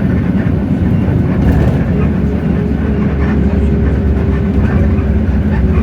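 Hino J08E-VN 7.7-litre six-cylinder diesel of a city bus running under way, heard from inside the bus as a steady low rumble. A thin, steady whine joins about two seconds in and holds.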